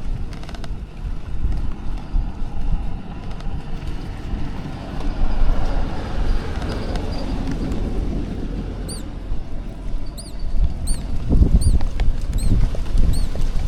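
Wind buffeting the microphone with a low rumble. In the last few seconds a small bird gives a series of about eight short, high chirps, roughly two a second.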